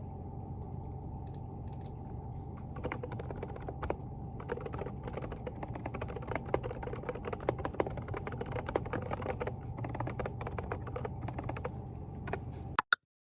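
Typing on a Groovestone GV10 mechanical keyboard with hand-lubricated silent Coral 38g switches: soft, rapid key clicks over a steady low hum. The typing starts about three seconds in, and the sound cuts off abruptly near the end.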